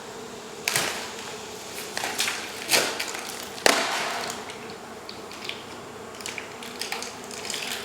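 A series of sharp scrapes and knocks, a few in the first four seconds and smaller ones later, from hand tools working into a wall to cut out a honey bee hive.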